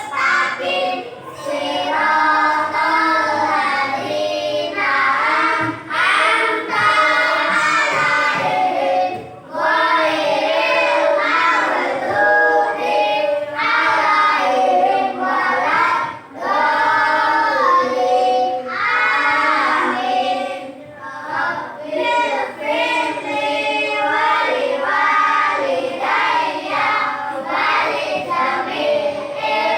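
A class of primary-school children praying aloud together in unison, in a sing-song chant, with short breaks between phrases.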